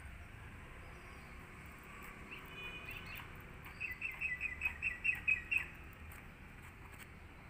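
A small bird chirping: a brief call about two and a half seconds in, then a quick run of about ten short, high chirps lasting about two seconds, starting about four seconds in.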